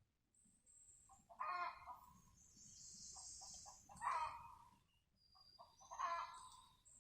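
An animal calling: runs of quick clucking notes, about six a second, broken by three louder, harsh calls spaced about two seconds apart. A brief high buzzing hiss comes between the first two calls.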